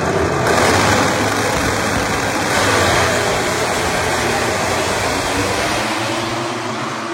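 Racing motorcycle engines running at speed, a dense loud engine noise that thins out and fades slightly near the end.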